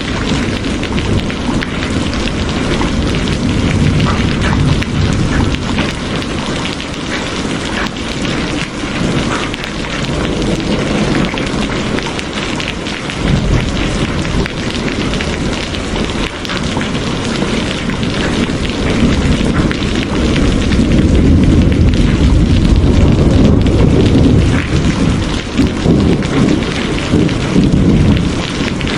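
Steady heavy rain falling, a continuous hiss, with a deep low rumble that swells and fades, strongest about two-thirds of the way through.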